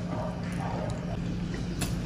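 Close-miked chewing of squid, soft wet mouth sounds, over a steady low hum, with a sharp click near the end.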